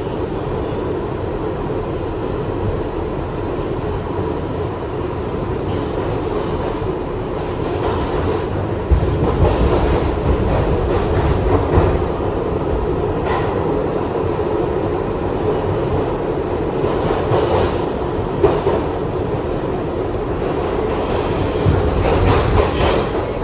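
Kawasaki R62 subway car running along the track, a steady rumble with the wheels clacking and knocking over rail joints, louder for a few seconds near the middle. A high wheel squeal sets in near the end.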